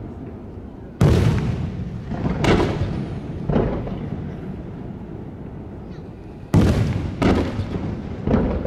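Aerial firework shells bursting, six booms each trailing off in an echo: three over a couple of seconds, a pause of about three seconds, then three more.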